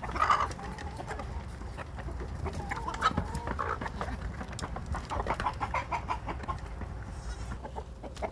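Chickens clucking and calling while they crowd around and feed on thrown kitchen scraps, amid many short ticks and knocks. The loudest calls come at the very start and about three seconds in.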